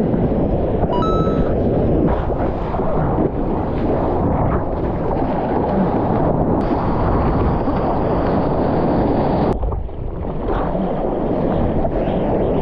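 Strong wind buffeting the microphone over the rush of ocean surf, with the sound changing abruptly twice, about six and a half and nine and a half seconds in.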